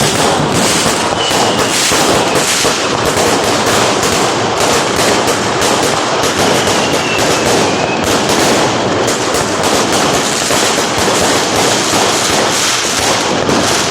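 A long string of firecrackers going off in a rapid, unbroken crackle of loud bangs.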